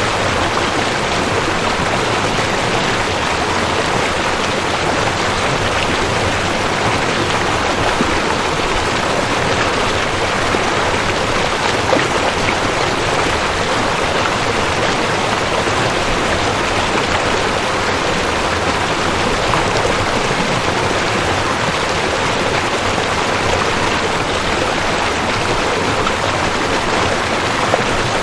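Rushing creek: water running steadily over rocks, an even, unbroken rush.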